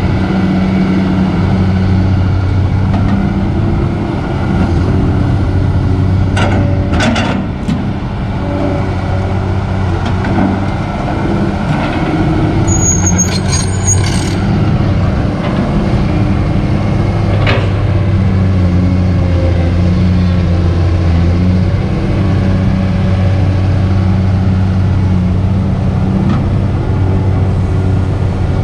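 Kobelco SK200 excavator's diesel engine running steadily under working load, with a few short clanks and a brief high squeal from the machine's moving parts.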